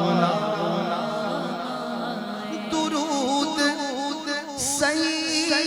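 A man singing an Urdu naat, holding long notes that waver through melodic ornaments. He ends the refrain on 'ghulam', pauses briefly near the end, and begins the next line with 'durood'. The voice carries a heavy added echo.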